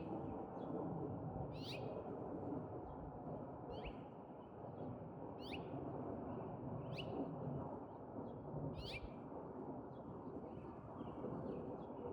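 A bird calling over and over, a short falling call about every second and a half, over a steady low background rumble.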